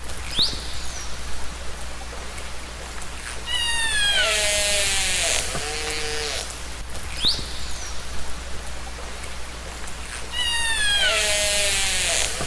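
Killer whale calls recorded underwater. A short rising whistle is followed by a long falling call with several pitches sounding together and a shorter steady call; the same sequence comes again about seven seconds later, over a hiss of background water noise.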